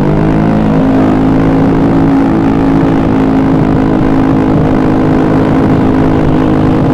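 Honda BeAT carburettor scooter's engine running at a steady speed, its note holding one pitch.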